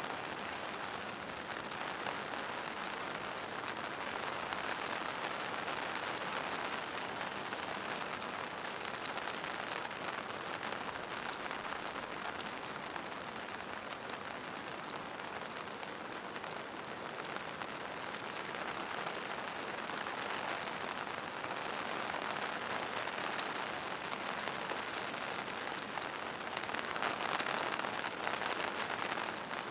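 Steady rain falling on forest foliage and rocks, an even hiss with fine scattered drop patter, swelling slightly near the end.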